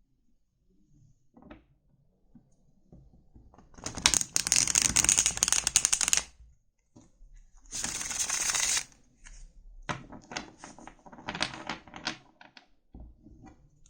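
Tarot cards being shuffled: two bursts of rapid, dense card clatter, the first about two seconds long and the second about one second, followed by scattered lighter flicks and taps of the cards.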